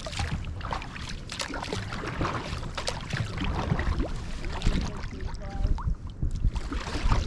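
Kayak paddle strokes splashing and dripping in the river water, a scatter of short splashes, over a low rumble of wind on the microphone.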